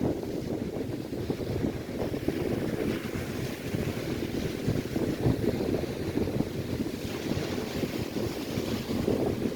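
Gusty wind buffeting the microphone over the rushing hiss of waves breaking on a lakeshore, the surf swelling and fading.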